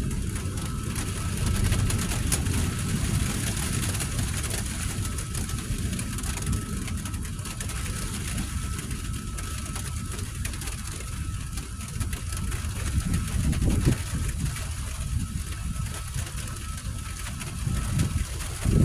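Storm wind buffeting a phone's microphone, a continuous low rumbling roar that swells and eases, with a thin hiss above it.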